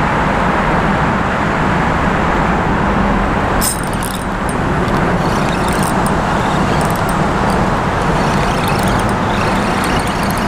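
Heavy traffic on a busy highway overpass overhead: a loud, steady rush of tyre and engine noise with a low hum underneath, and a brief sharper hiss about four seconds in.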